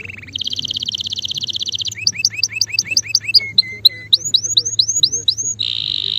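Male canary singing a run of phrases: a fast buzzy trill, then a quick series of repeated upward-hooking notes, three short flat whistles, more rising sweeping notes, and another buzzy trill starting near the end.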